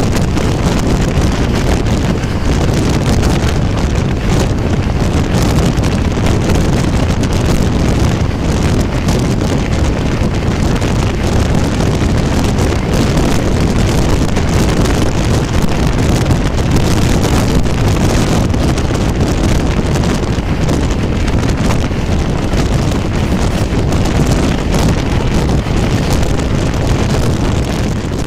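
Steady rush of wind and rumble of a passenger train running along the track, with wind buffeting the microphone.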